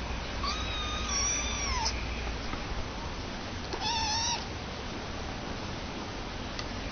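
Two drawn-out, meow-like animal calls. The first lasts about a second and a half and falls in pitch at its end; the second, shorter one comes about two seconds later.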